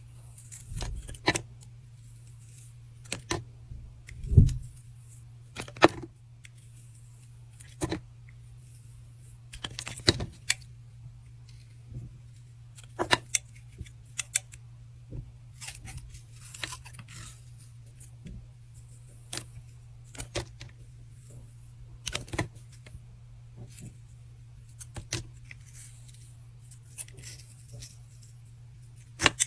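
Bars of soap being cut with a blade: crisp crunching snaps and clicks at irregular intervals, with one louder low thump about four seconds in. A steady low hum runs underneath.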